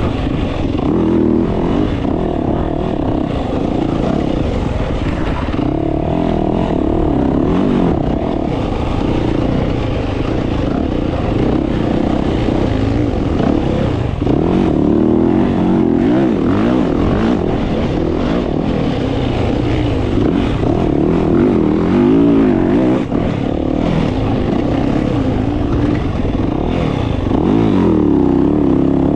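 Dirt bike engine revving up and down over and over, its pitch rising and falling as the throttle is worked.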